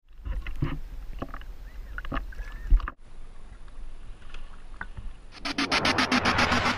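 Underwater recording of bottlenose-type dolphins: scattered clicks with a couple of short whistles about two seconds in. After a cut near the middle, a fast, dense click train starts about five and a half seconds in.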